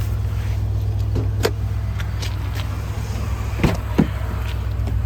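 Ford Super Duty truck engine idling with a steady low hum, with a few sharp clicks and knocks, two of them close together near the end.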